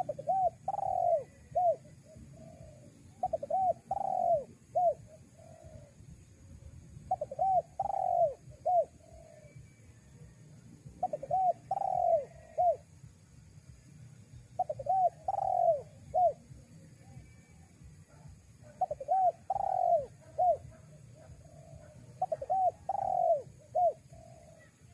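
Spotted dove cooing: a repeated phrase of a few short coos around one longer, louder coo, given about seven times, one phrase every three to four seconds.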